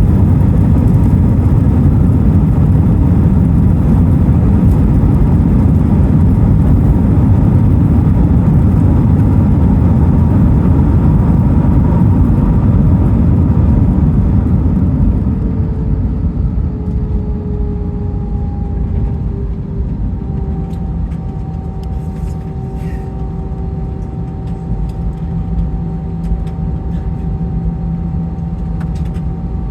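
Inside the cabin of an Airbus A321 on the landing rollout: a loud low rumble of the jet engines and the wheels on the runway. About halfway through it drops sharply to a quieter rumble, and a two-toned engine whine glides slightly down and settles steady as the engines slow toward idle.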